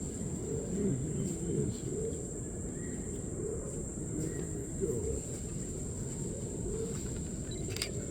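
A dove cooing repeatedly in short low calls, over a steady high-pitched insect whine and a low rumbling background. A couple of sharp clicks near the end.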